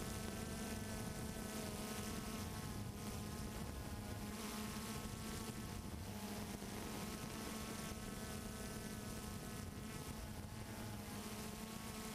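Multirotor drone propellers buzzing steadily, a droning hum with overtones that waver slightly in pitch.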